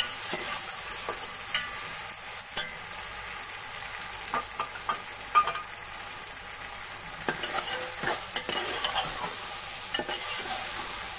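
Sliced potatoes and vegetables frying in hot oil over high heat, sizzling steadily, while a metal spatula stirs them, scraping and clicking against the pot now and then.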